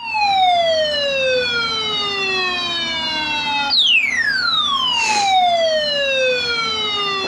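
Electronic siren-like alert tone, rich in overtones, gliding slowly down in pitch and then jumping back up to glide down again about halfway through. A brief hiss cuts across it shortly after the restart.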